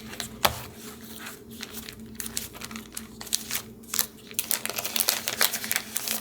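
Paper being handled and crinkled: a string of quick rustles and crackles that grow denser about four seconds in, over a faint steady low hum.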